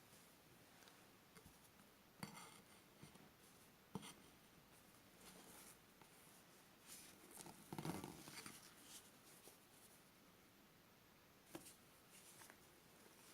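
Macaron batter being folded and scraped against the side of a mixing bowl during macaronage: faint, intermittent scrapes and light taps, busiest about eight seconds in.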